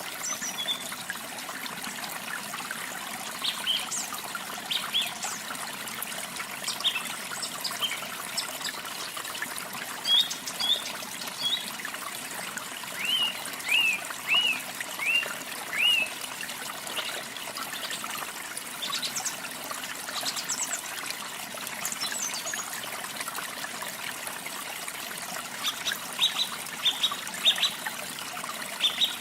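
Steady sound of falling water from a waterfall, with songbirds calling over it. About halfway through, a bird gives a run of five down-slurred whistles roughly half a second apart, and near the end come clusters of quick, high chirps.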